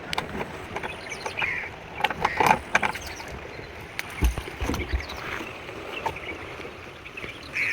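Water splashing and sloshing around a small boat, with scattered knocks.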